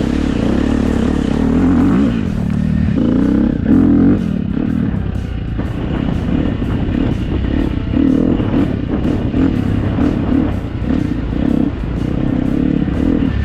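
Dirt bike engine running while being ridden, its revs rising and falling unevenly, with background music laid over it.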